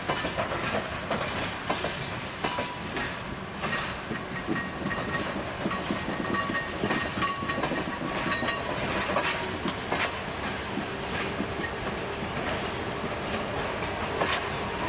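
Passenger railway coaches rolling slowly past, their wheels clicking over rail joints in an uneven clickety-clack over a steady rumble, with a faint thin high squeal for a few seconds in the middle.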